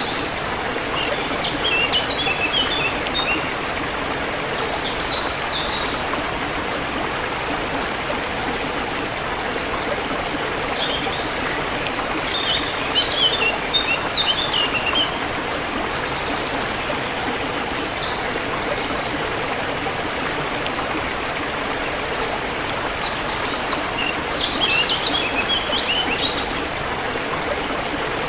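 A forest stream flowing steadily, with small birds chirping in short clusters of quick high notes every few seconds, about five times.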